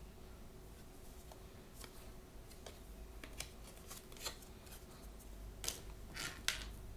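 Hands working blind-bag packaging: a scatter of small clicks and crinkly snips, sparse at first and louder and denser near the end.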